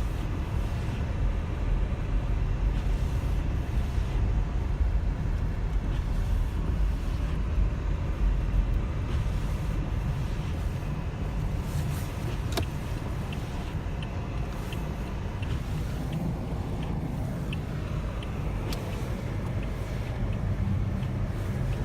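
Storm wind buffeting the microphone in a snowstorm: a steady, uneven low rumble, with a few faint ticks in the second half.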